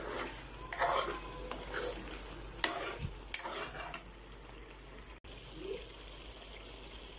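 Chicken karahi masala frying with a steady sizzle in a metal karahi as a metal spoon stirs and scrapes through it, about four strokes in the first four seconds. After that only the sizzle remains, while the masala is fried down (bhuna) until the oil separates.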